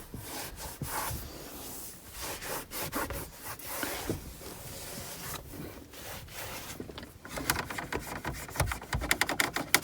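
Damp microfibre e-cloth rubbing over the car's interior surfaces in uneven wiping strokes, which turn quicker and sharper in the last few seconds.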